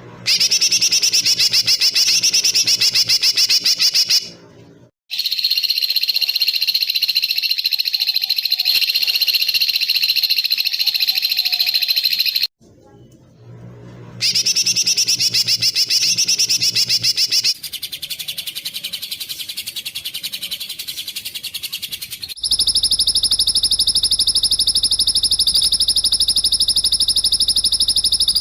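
Spliced recordings of small songbirds giving dense, very rapid trills ('tembakan rapat', tight fast bursts), played as masteran tutor song for competition birds. Several runs of a few seconds each follow one another with abrupt cuts, and short breaks about four and twelve seconds in.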